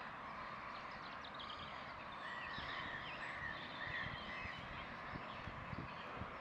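Faint lakeside ambience with a run of about five short bird calls from about two seconds in, lasting about two seconds, over a steady background hiss and low irregular rumbles.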